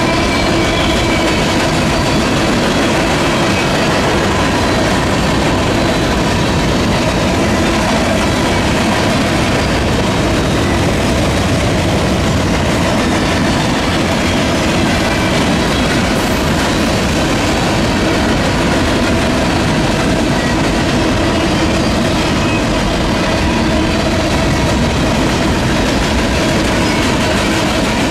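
Freight train boxcars rolling past close by: loud, steady rolling noise of steel wheels on rail, with a few faint steady tones ringing over it.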